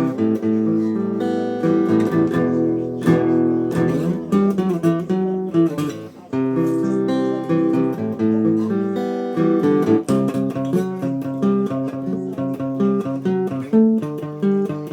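Instrumental music led by acoustic guitar, with chords strummed and picked in a steady rhythm.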